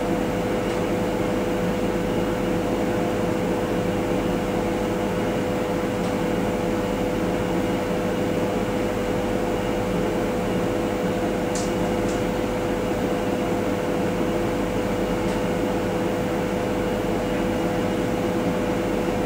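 Steady mechanical hum and noise inside a suburban train's vestibule, with a constant whine, and a couple of faint high clicks about twelve seconds in.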